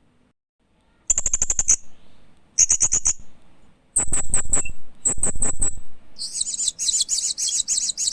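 Hanging parrot (Loriculus) chirping. After about a second of quiet come several short quick series of high, sharp chirps, turning into a rapid continuous chatter in the last couple of seconds.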